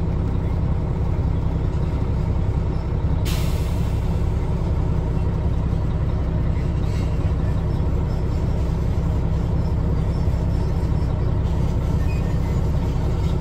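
Diesel tractor truck engine idling steadily, heard from inside the cab, with a short sharp hiss of released air about three seconds in.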